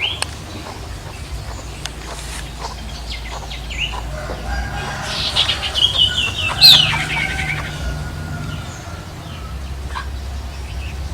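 Male sirtu bird calling, with a loud run of quick, chattering notes in the middle. Under it runs a steady low hum.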